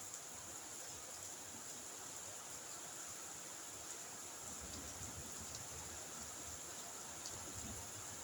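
Faint, steady hiss of night rain, with a faint low rumble joining about halfway through.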